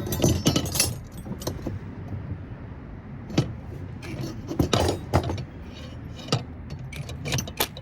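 Scattered metallic clinks and knocks of tools and screws against metal parts, as stripped screws are worked at with a driver bit.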